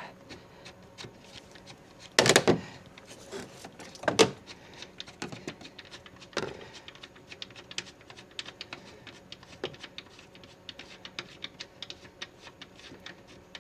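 Light metallic clicks and taps of hand work on a bolt in the engine bay, with a few louder clunks about two, four and six seconds in.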